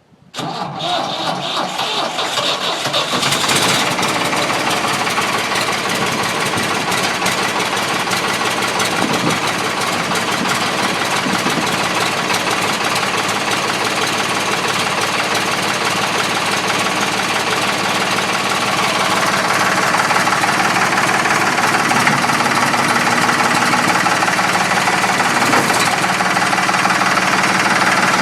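Ford 4400 tractor's diesel engine cold-started at about 40 degrees without glow plugs or grid heater. The starter cranks for about three seconds before the engine catches, then it settles into a steady idle with diesel clatter, which picks up slightly about twenty seconds in.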